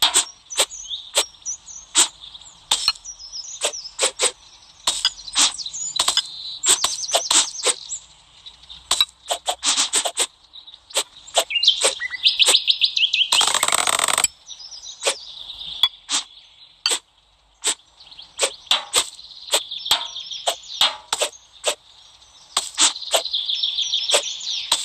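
A blade slicing again and again, making a string of short, sharp cuts at an uneven pace, with one longer, louder cut about thirteen seconds in. Birds chirp and trill in the background.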